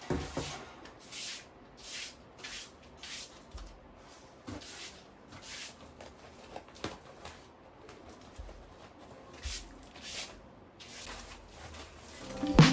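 Soft rustling strokes, about one or two a second, with a few light clicks: quiet handling of household things.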